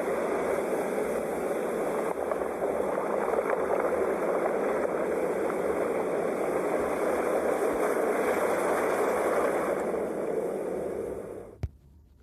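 Steady wash of sea waves breaking on a shore, a continuous rumbling surf. Near the end it drops away, with a single click, into near silence.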